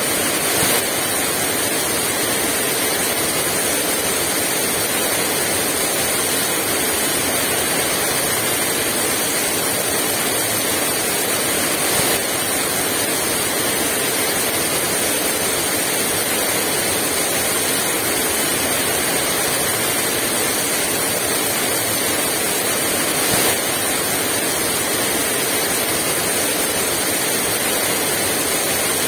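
Heavy rain pouring down steadily as a dense, even hiss, with a few brief louder moments.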